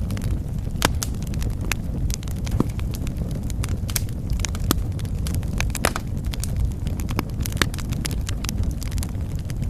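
Wood fire burning in a fireplace, with a steady low rumble of flame under irregular sharp crackles and pops.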